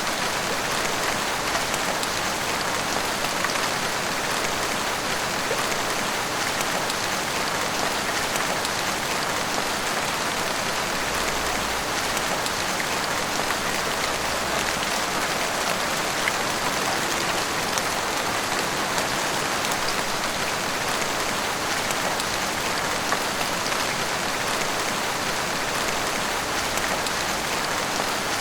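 Heavy rain pouring steadily, drops pattering on roofs and pavement with a dense, even hiss that never lets up.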